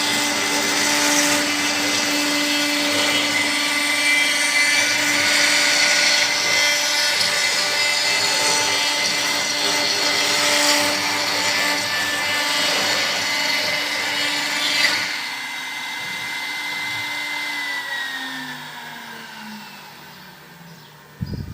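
CNC router spindle running with a steady high whine while cutting. About 15 s in the cutting noise drops away, and near the end the whine falls in pitch as the spindle spins down, followed by a short knock.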